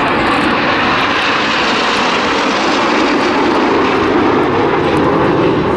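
Several BAE Hawk T1 jets passing in formation, their Rolls-Royce Adour turbofans making a loud, steady roar.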